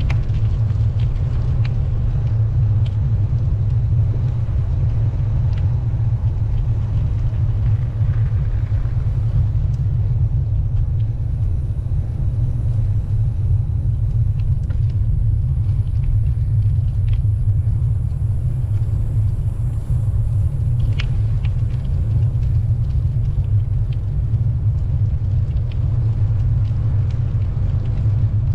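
Wind buffeting the microphone while riding a bicycle: a steady low rumble with a few faint clicks.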